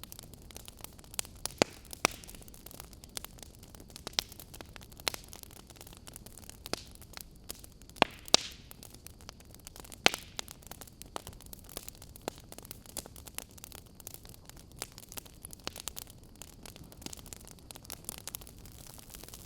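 Wood fire crackling in a fireplace: irregular sharp pops and snaps over a steady low hiss, with a few louder pops about 2, 8 and 10 seconds in.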